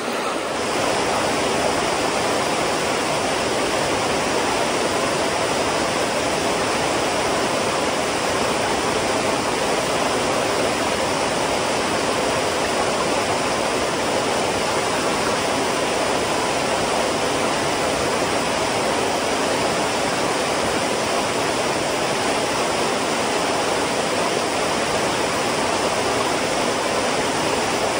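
Creek water rushing steadily over rocks, an even unbroken rush of flowing water.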